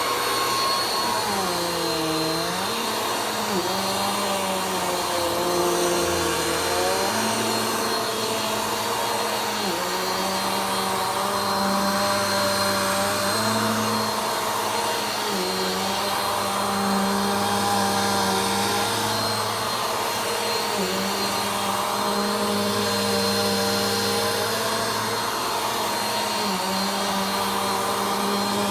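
Vacuum cleaner running steadily during slow vacuuming. Its motor tone wavers and dips now and then, most clearly about two seconds in, over a constant airflow hiss.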